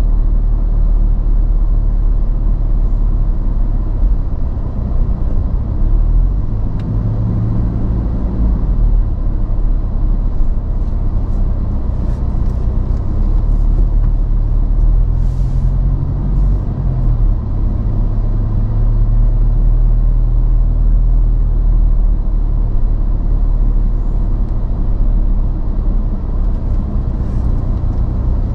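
Toyota Land Cruiser Prado driving slowly, a steady low engine and road rumble. The engine note rises briefly about eight seconds in and again around sixteen seconds.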